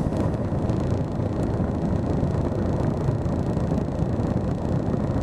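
A car engine idling, heard from inside the car's cabin as a steady low rumble.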